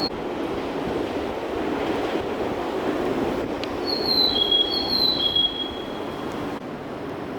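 A train rolling slowly through the station with a steady rumble; from about four seconds in, its wheels squeal in a few high, slightly sliding tones for a second and a half.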